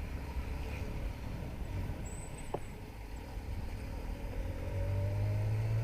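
Riding on a motorcycle: low wind and road rumble, with an engine note that rises slowly in pitch as it picks up speed in the last couple of seconds.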